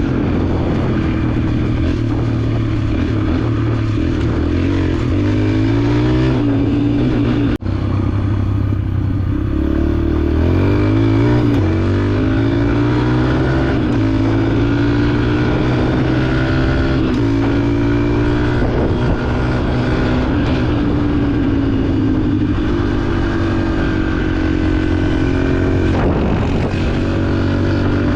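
Dirt bike engine running under way, its pitch climbing as it accelerates, twice: once about six seconds in and again about ten seconds in. A brief sharp break cuts the sound once, about halfway through the first climb.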